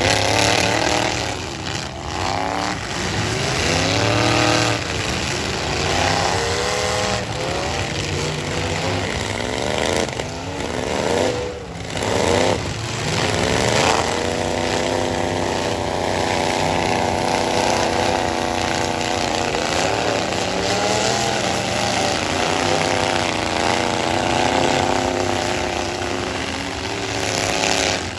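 Several full-size pickup truck engines revving hard, their pitch rising and falling again and again as the trucks drive in a demolition derby heat; about halfway through one engine settles into a steady, held high rev.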